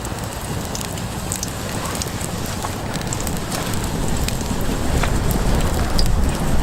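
Small campfire crackling: scattered sharp pops and ticks over a steady hiss. A low rumble swells in the second half.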